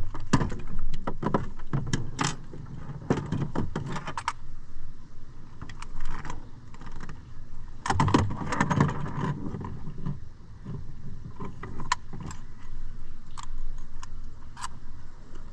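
Irregular clattering and rattling of gear being handled on a boat: dense runs of clicks and knocks through the first four seconds and again around eight seconds, then scattered single clicks.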